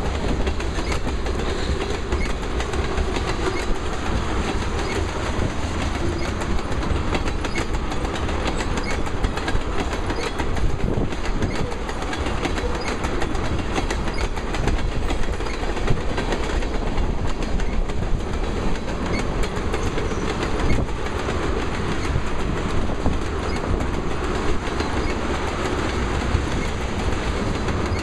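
Loaded freight cars (tank cars and covered hoppers) rolling past at speed. Their wheels clickety-clack over jointed rail in a steady, continuous rumble.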